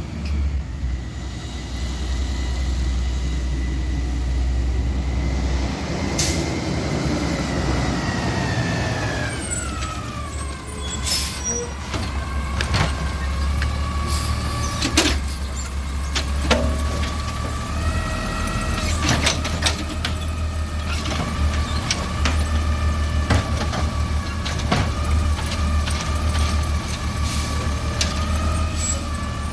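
Garbage truck running at work: a low diesel engine rumble with a steady high whine that slides down in pitch about eight to ten seconds in and then holds, under repeated sharp clanks and bangs.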